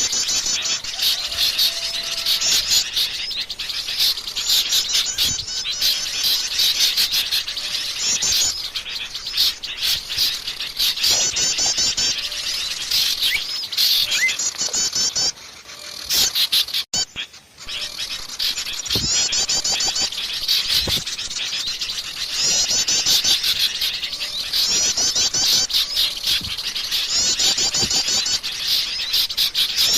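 Many small songbirds chirping and twittering at once in dense, rapid, overlapping high trills, as in a bird-luring recording. The chorus briefly drops out about halfway through, then resumes.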